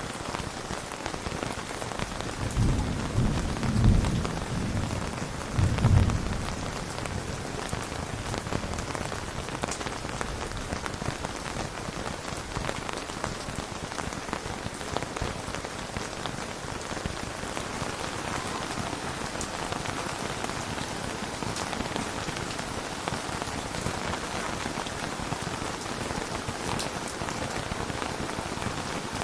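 Steady rain, with a low rumble of thunder from about two to six seconds in that swells twice before fading back into the rain.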